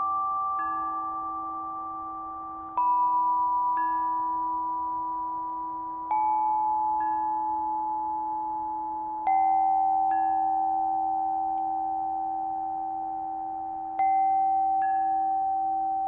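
A Meinl chime tuned to 432 Hz struck slowly, with four clear notes of different pitch each ringing on long. A lighter, higher tap follows each strike about a second later, over a steady low ringing tone.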